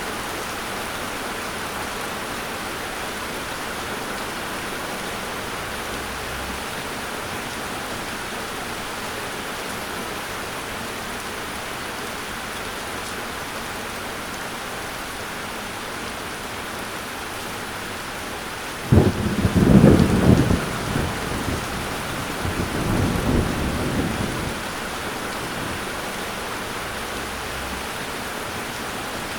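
Steady heavy rain, with a clap of thunder about two-thirds through that starts suddenly and rolls off into a low rumble, followed by a second, softer rumble.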